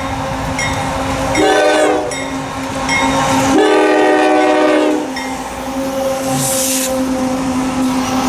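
Diesel locomotive air horn sounding a short blast and then a longer one about two seconds later, over a steady hum from the train. A brief hiss follows near the end.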